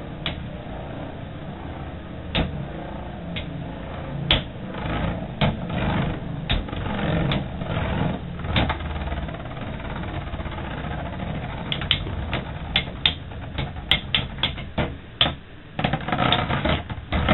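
Two metal Beyblade spinning tops, Earth Eagle 145WD and Lightning L-Drago 100HF, whirring in a plastic stadium, with sharp clacks as they strike each other, coming thick and fast in the last few seconds.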